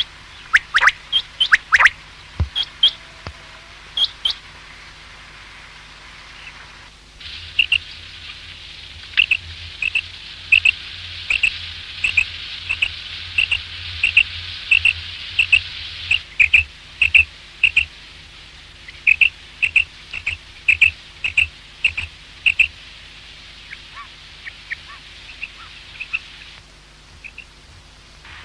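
Common quail calling: a long run of short, sharp notes repeated about twice a second, over a steady hiss that grows louder about seven seconds in.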